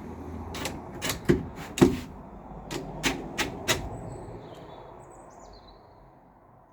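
A quick, irregular run of sharp knocks and clicks, about eight in three seconds, from hand work on the pipework and fittings.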